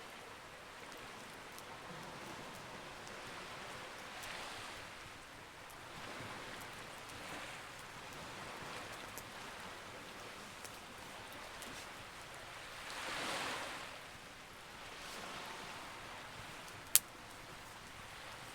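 Campfire crackling: a soft rushing hiss that swells and fades every few seconds, with scattered small pops and one sharp loud pop near the end.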